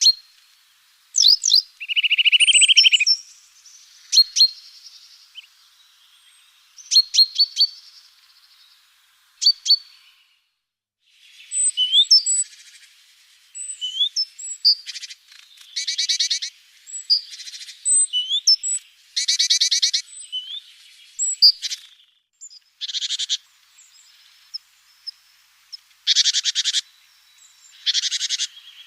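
Small songbirds calling: quick high chirps, sharp rising notes and a trill, then repeated buzzy rattling calls every few seconds in the second half.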